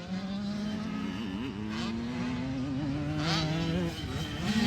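Several 85cc two-stroke motocross bikes racing, their engine notes overlapping and wavering in pitch with the throttle; the sound dips briefly near the end, then climbs again.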